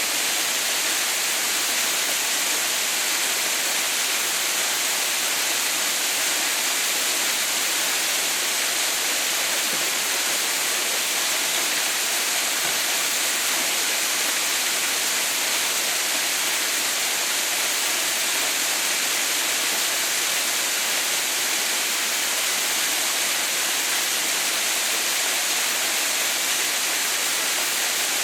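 Haha no Shirataki waterfall, frozen into an icefall but with water still running, making a steady, even hiss of falling water that does not change.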